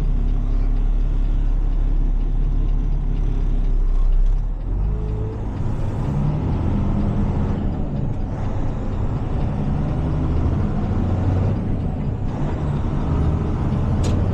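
Heavy tow truck's diesel engine running as the truck moves slowly. The low drone changes about four and a half seconds in, and a single sharp click comes near the end.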